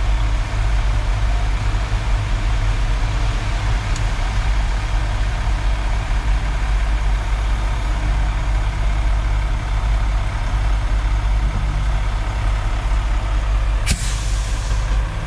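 Concrete mixer truck's diesel engine running steadily at raised revs while the drum discharges concrete. Near the end there is a sharp click followed by a brief hiss.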